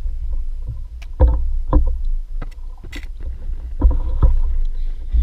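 Kayak out on the water: a steady low rumble, with several knocks and splashes against the hull.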